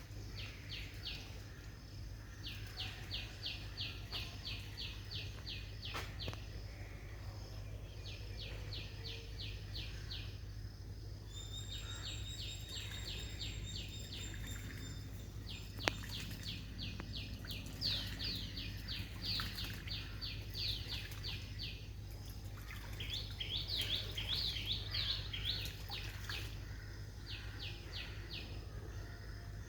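Birds calling in bouts of fast, high, evenly repeated chirps, several a second, each bout lasting a few seconds, with a brief thin whistle near the middle. A steady low hum runs underneath.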